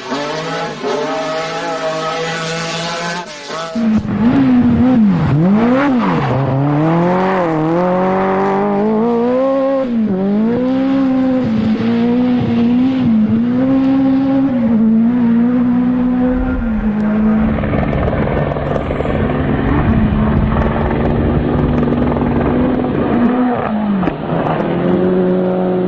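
Rally car engines at high revs, the pitch climbing and dropping sharply again and again through gear changes and lifts off the throttle. About four seconds in the sound cuts abruptly to another clip.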